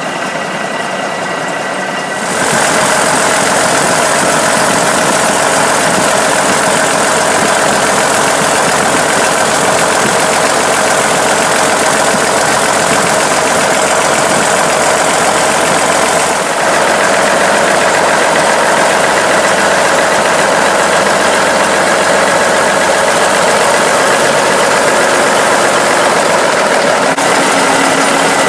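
1983 Cummins diesel engine running steadily on a stand. About two seconds in it gets louder, then holds an even, clattering run.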